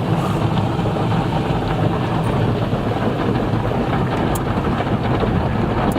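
Automatic car wash running over the car, heard from inside the cabin: a steady rush of water and spinning brushes washing across the body, with a low rumble.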